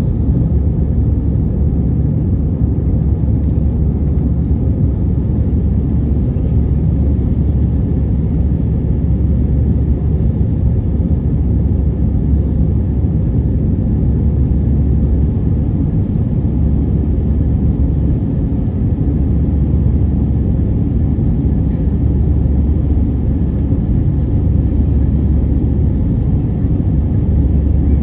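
Airbus A320 cabin noise heard from inside the aircraft: a steady, loud, low rumble of engines and airflow with no breaks or changes.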